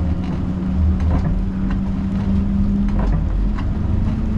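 Siemens Combino tram running on its rails, heard from the driver's cab: a steady low rumble with a motor hum that rises slightly in pitch near the end, and a few light clicks.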